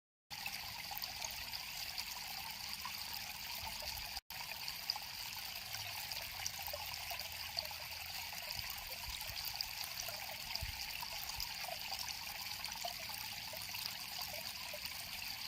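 River water flowing and trickling steadily over stones. The sound drops out completely for an instant about four seconds in.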